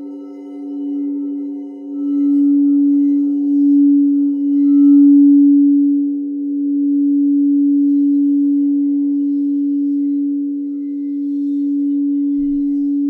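Singing bowls sounding a sustained low tone with fainter higher tones above it, swelling and easing in loudness.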